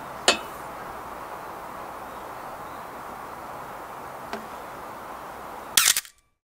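Metal lid of a UNIFLAME compact smoker being lifted and lowered: a sharp clank just after the start, a light tick about four seconds in and a brief louder clatter near the end, over a steady outdoor hiss, cutting off into silence.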